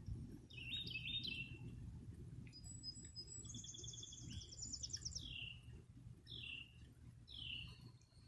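Birdsong: a short chirped phrase, then a fast trill, then three down-slurred whistled notes about a second apart, over a faint low background rumble.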